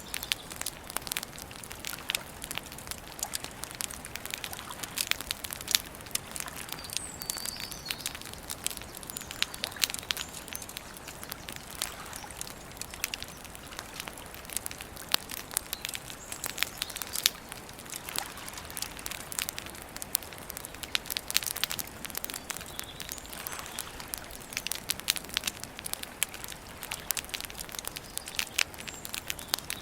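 Wood campfire crackling, with dense irregular sharp pops and snaps over a soft steady hiss. A bird chirps faintly a few times about seven seconds in.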